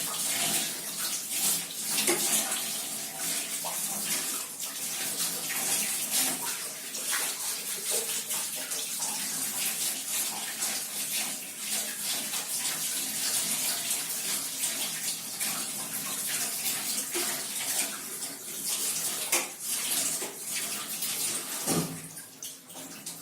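Tap water running steadily while a Hotpoint dishwasher filter is rinsed under it, with a few light knocks of the filter being handled; the flow is turned off near the end.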